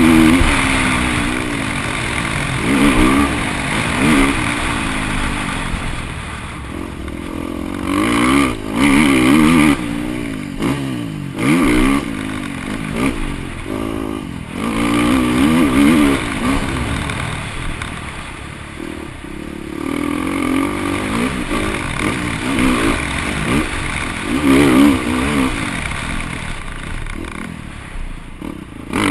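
KTM 350 four-stroke single-cylinder motocross bike engine revving hard, its pitch rising and falling again and again as the throttle is opened and chopped, with a few sharp cut-offs of the throttle. Heard from a helmet-mounted camera.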